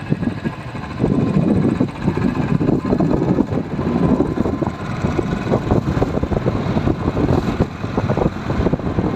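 Royal Enfield Bullet's single-cylinder engine running on the move, a rough, uneven low rumble that gets louder about a second in.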